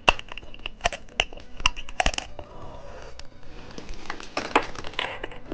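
Sharp clicks and crunches with crinkling from hard candy and its plastic packaging being handled close to the microphone, with a cluster of clicks in the first two seconds and more crinkling near the end.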